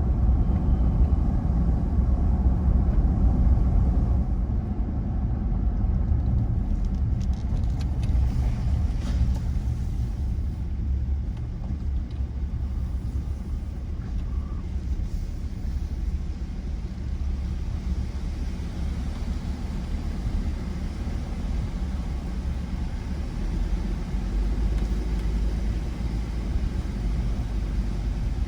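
Ford Ranger pickup driving, a steady low engine and road rumble, a little louder in the first few seconds.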